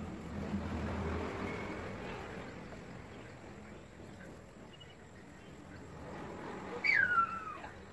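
A single animal call, most likely a bird's, slides down in pitch over about a second near the end. It stands out over a steady outdoor background noise that swells during the first couple of seconds.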